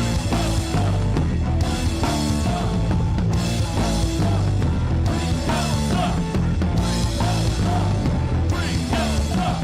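Loud rock music with drums, bass and guitar, in a punk rock style.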